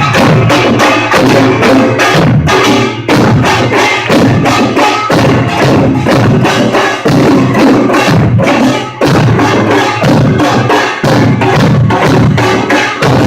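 Korean pungmul percussion band playing: small hand gongs and drums (kkwaenggwari, janggu, buk) beating a fast, dense rhythm without a pause. Loud and harsh, as recorded on a phone with poor sound quality.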